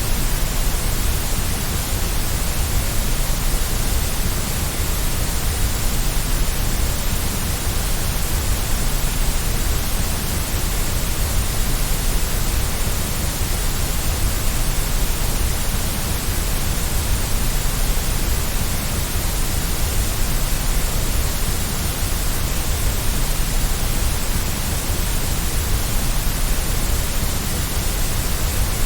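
Steady white noise: an even, unchanging hiss spread across the whole range, heaviest in the low end.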